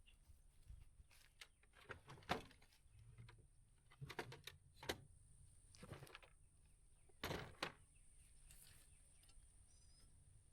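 Faint scattered knocks, thunks and scuffs of things being moved and handled, a handful of separate strokes with quiet gaps between them.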